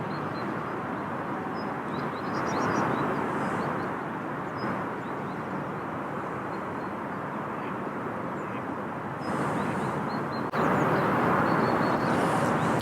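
Steady outdoor rushing noise, with faint short high chirps now and then. The noise shifts abruptly a few times, about two, nine and ten and a half seconds in.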